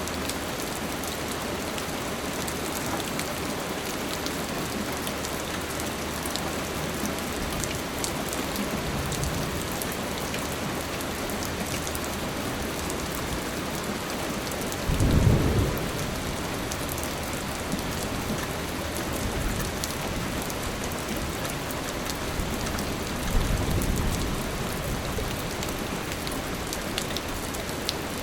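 Steady rain falling, a dense hiss of drops, broken by three low rolls of thunder, the loudest about halfway through.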